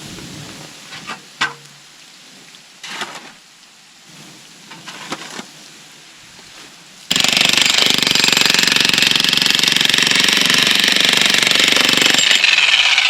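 A few faint knocks, then about seven seconds in a jackhammer starts abruptly and runs steadily and loud with a rapid hammering rattle.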